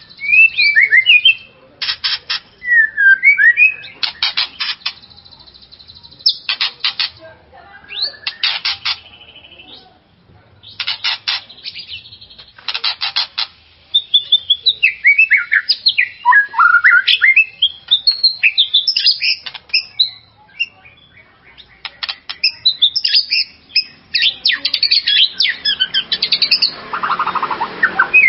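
White-rumped shama singing: harsh, rapid rattling phrases alternate with loud whistled notes that slide up and down, in many short bursts with brief pauses between them.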